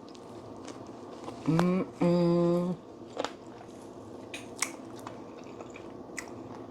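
A person biting and chewing roasted chicken wings, with scattered small wet clicks of chewing. About two seconds in comes a short voiced rise, then a steady hummed 'mmm' lasting under a second.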